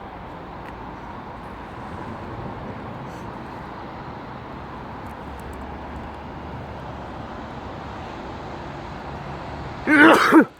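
Network Rail Multi-Purpose Vehicle (MPV) track unit running steadily as it passes through the station, with a brief, much louder pitched sound about ten seconds in.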